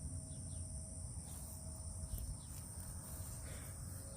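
Insects, crickets or similar, trilling in a steady, unbroken high-pitched drone, over a low rumble of outdoor background noise.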